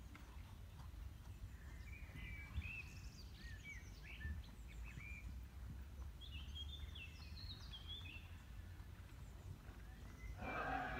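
Small birds chirping in short, curving calls over a low steady rumble. Near the end a louder sound with several held pitches starts.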